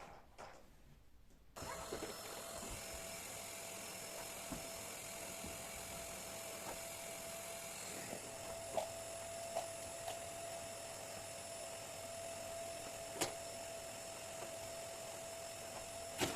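An electric motor switches on about a second and a half in and runs steadily with a constant whine, with a few light clicks and knocks over it.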